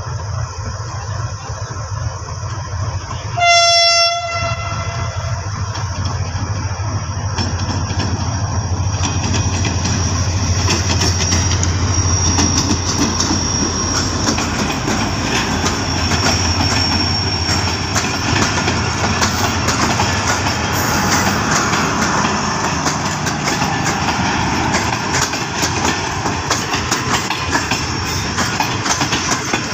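Diesel-hauled passenger train arriving: a steady low diesel engine hum, a short horn blast about three and a half seconds in, then the locomotive and coaches run past close by, with wheels clacking over rail joints and a thin high wheel squeal for a while.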